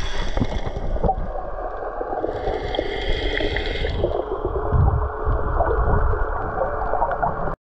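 Water gurgling and sloshing, as heard by a camera in the sea, continuous and muffled; it cuts off abruptly near the end.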